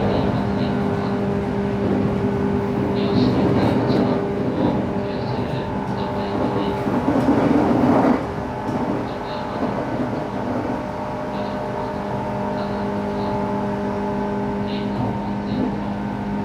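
Running noise heard inside a JR West 117 series electric train carriage at speed: a steady motor and gear hum over wheel-on-rail rumble. A louder rush of noise builds and then drops off sharply about eight seconds in.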